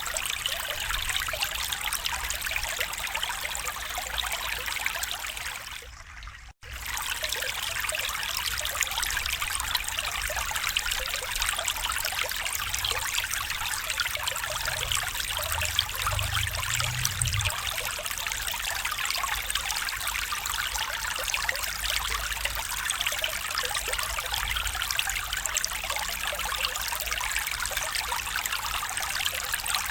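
A small stream trickling and splashing steadily. The sound dips and cuts out for a moment about six seconds in, then resumes.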